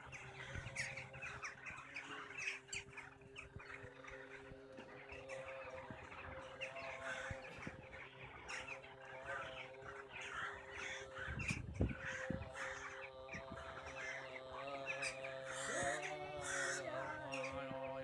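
Crows cawing amid a busy chatter of bird calls, over a steady low droning tone with overtones that begins to bend in pitch near the end.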